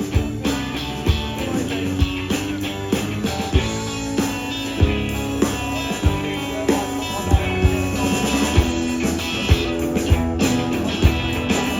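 Live blues-rock band playing an instrumental break between verses: guitar over a steady drum beat.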